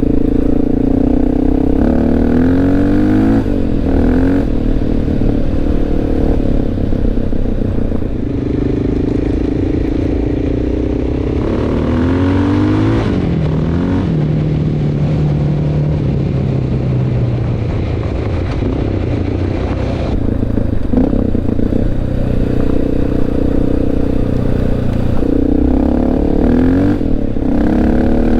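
Honda XR650L's single-cylinder four-stroke engine under way, accelerating with rising and falling pitch sweeps a few times, and running at a steadier, lower note through the middle.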